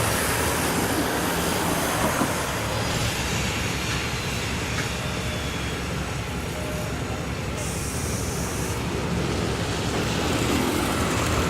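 Hitachi RHN diesel railcar, a 220 hp power car, running as it moves off: a steady low engine drone under a constant wash of rail noise.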